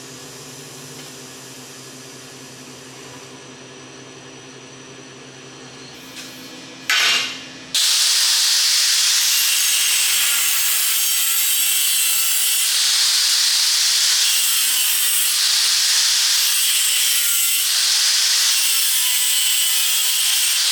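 A steady, fairly quiet machine hum for the first several seconds; then, after a short loud burst about seven seconds in, a power tool works material with a loud, harsh, steady grinding hiss.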